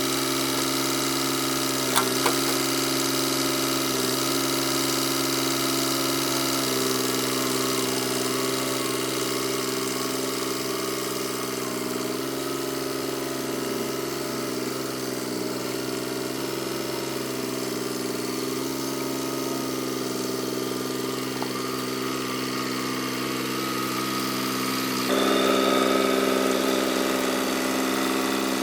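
An engine running steadily, with two sharp clicks about two seconds in and a step up in loudness near the end.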